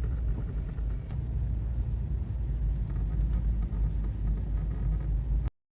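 Car cabin road noise while driving: a steady low rumble that cuts off suddenly near the end.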